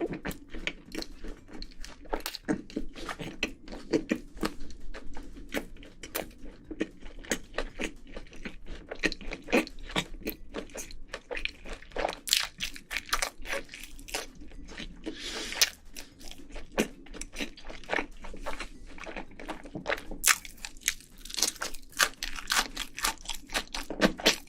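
Close-miked chewing of a big mouthful of pizza: irregular wet crunches and crackles of crust, with a steady chewing rhythm throughout.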